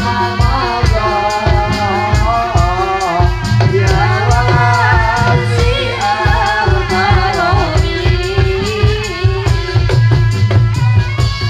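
Live barongan folk music: a wavering sung melody over fast, dense drumming and rattling percussion, with a steady low bass note underneath.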